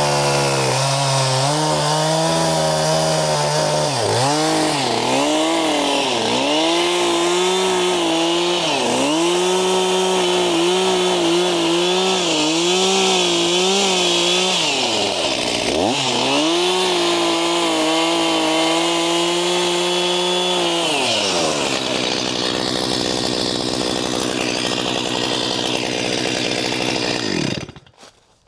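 Two-stroke chainsaw running at high revs, its pitch sagging and recovering again and again as it bites into wood. About 21 seconds in it drops off the throttle and winds down, then cuts off about a second before the end.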